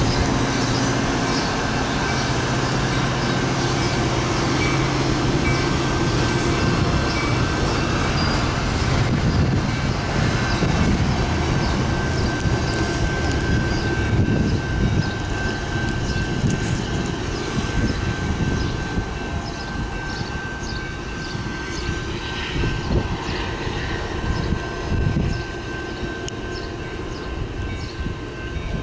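Metra bilevel commuter train cars rolling past on the rails, with a dense rumble and uneven clacks from the wheels. A low steady hum fades out in the first several seconds, and the rumble grows fainter in the second half as the cab car goes by and the train pulls away.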